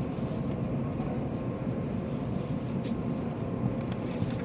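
Steady low hum and rumble of a stationary Shinkansen train's equipment idling at the platform, with a faint steady tone over it.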